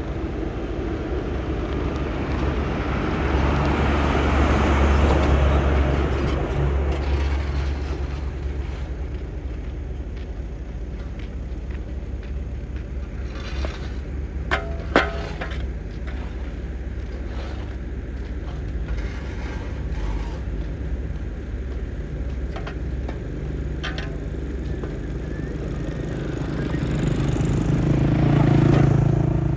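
Heavy road-works machine engine rumbling steadily, swelling louder twice, with one sharp click about halfway.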